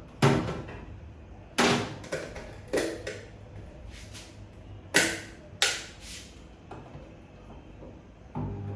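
About five sharp clicks and knocks from a Hisense microwave oven being shut and its controls worked. Near the end the microwave switches on and runs with a steady hum.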